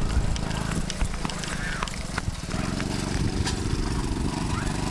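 Small dirt bike engine running unevenly, then settling into a steady idle about halfway through.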